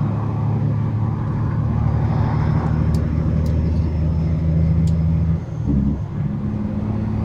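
Semi-truck engine running steadily, a low drone heard from inside the cab, with the engine note dipping and changing briefly about five and a half seconds in before settling again.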